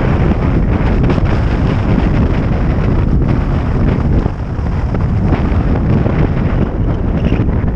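Loud, steady wind buffeting on an uncovered microphone of a vehicle descending a mountain road, a dense low rumble with no let-up.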